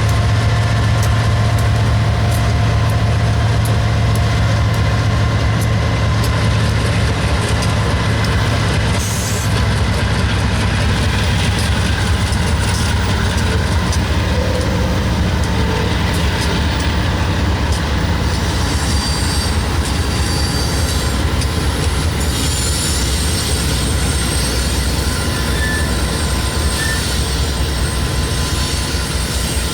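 Freight train cars rolling past in a steady low rumble, with wheels clicking over rail joints and a faint, thin wheel squeal.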